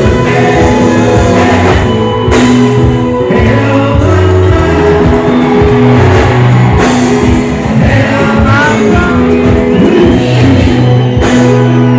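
Live band music with singing, played loud through a PA, with steady bass, guitar and drums under the voice.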